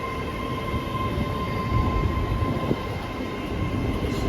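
A train running through a station platform without stopping: a steady rumble of wheels on rails, with a steady high whine over it.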